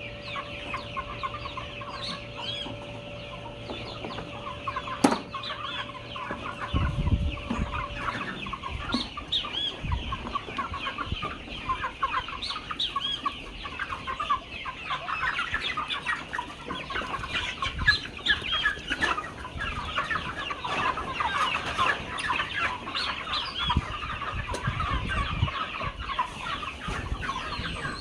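A large flock of chickens clucking and calling all at once, a dense, continuous chatter. A steady hum runs underneath for the first eight seconds or so, then stops.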